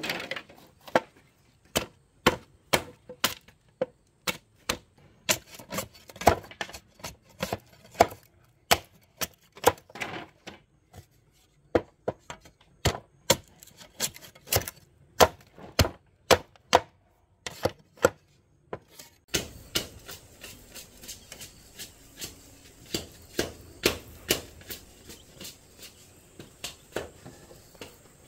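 Irregular series of sharp chopping strikes, roughly one or two a second with short breaks. Near the two-thirds mark a steady faint hiss comes in beneath them.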